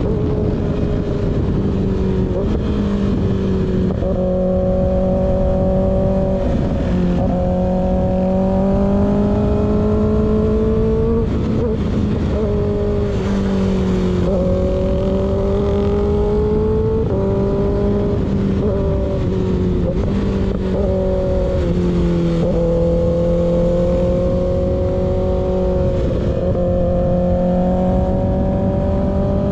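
Kawasaki ZX6R's inline-four engine running through an unbaffled M4 GP19 slip-on exhaust while riding. Its note climbs slowly and then steps to a new pitch every few seconds as the throttle and gears change.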